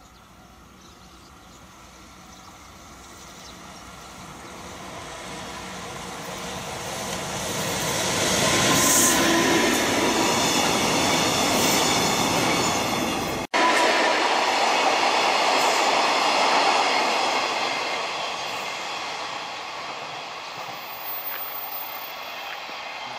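Freight train hauled by an EF65 electric locomotive passing: wheel-on-rail rumble and clatter builds to a peak about eight seconds in, with a brief high screech of wheels near nine seconds. After a sudden cut about thirteen seconds in, the train noise carries on loud and then fades.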